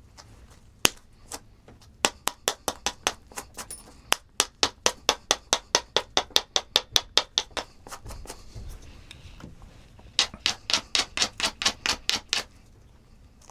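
Hammer tapping on a stone nodule in quick light strikes, chipping the chalky cortex off: a couple of single taps, then a long run at about four to five taps a second, a pause, and a second shorter run.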